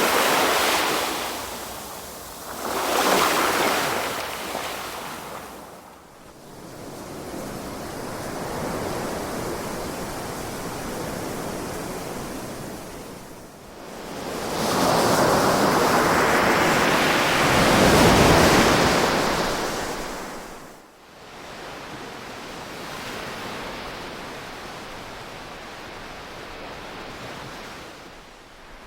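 Ocean surf: waves breaking and washing in, swelling and fading every few seconds, with the biggest surge lasting several seconds around the middle.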